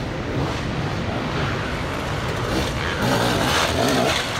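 Off-road enduro motorcycle engine revving up and down over a rough section, louder with climbing revs near the end.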